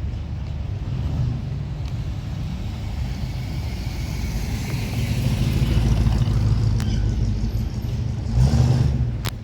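Vehicle engine running with a low rumble, growing louder as it revs or pulls away. A brief louder surge comes near the end, then the sound drops off.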